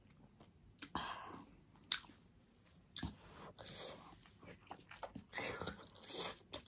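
A person chewing and biting into juicy pork momo: wet smacking and sharp mouth clicks at irregular intervals, a few of them louder.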